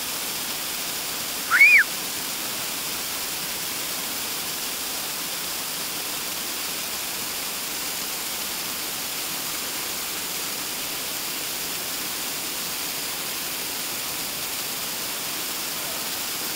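Steady rushing of a waterfall. About one and a half seconds in, a short high-pitched call rises and falls over it.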